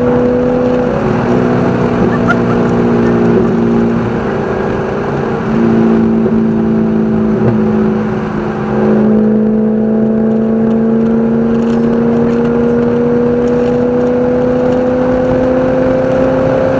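Race car engine running hard at speed, its note holding high and stepping in pitch a few times. About eight seconds in it dips briefly, then climbs slowly and steadily.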